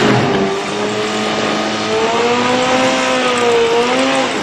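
Drag-racing vehicle's engine running hard and loud: a broad rush of engine noise about half a second long opens, then a steady engine note that wavers slightly in pitch and dips near the end.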